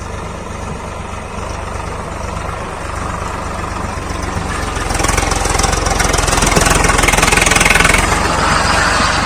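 Swaraj 855 FE tractor's three-cylinder diesel engine running steadily. About five seconds in it gets louder and harsher, with more rushing noise on top of the engine beat.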